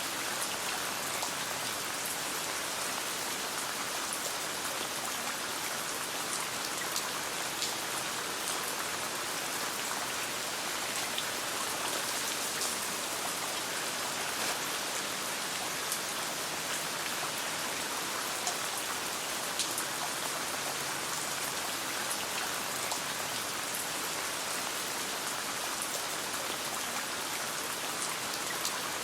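Steady rain with many small sharp drop ticks scattered through the even hiss.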